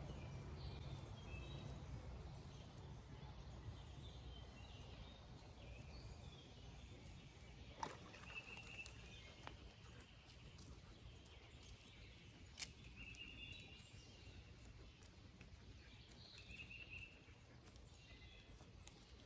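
Near silence: faint outdoor ambience with distant birds chirping now and then and a few soft clicks.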